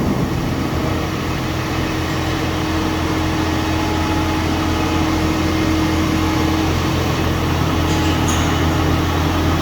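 A heavy farm machine's engine running steadily, a low even hum with no change in speed.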